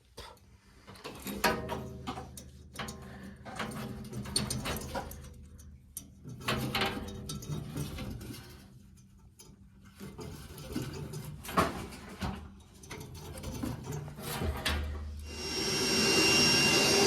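Scattered metal knocks and clatter from handling boiler parts and tools, then a vacuum cleaner starts near the end and runs steadily, drawing out soot and debris as the boiler is cleaned.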